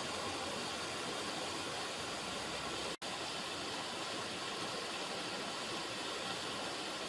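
River water running: a steady, even rush, cut out for an instant about three seconds in.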